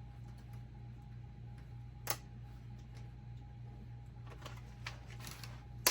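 Handling noise from the unboxed fridge and its packaging: a sharp click about two seconds in, then a few fainter clicks and rustles, over a steady low hum.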